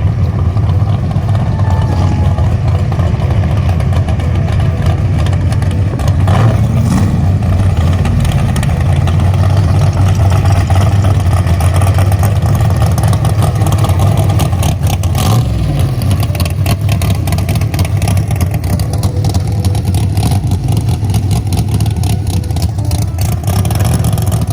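A car engine running steadily and loud, with two brief changes about a quarter and about two-thirds of the way through.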